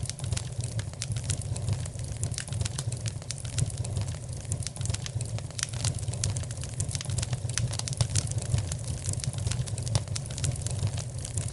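Fire in a fireplace crackling, with many sharp irregular pops over a steady low rumble of the flames.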